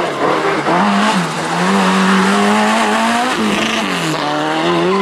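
Group B rally car engine at high revs, its pitch climbing steadily, dropping sharply about three and a half seconds in, then climbing again.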